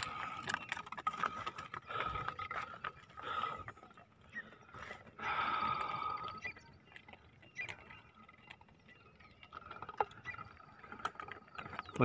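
Faint birdsong: birds calling and chirping, with a thin, rapid high trill about five seconds in and again near the end.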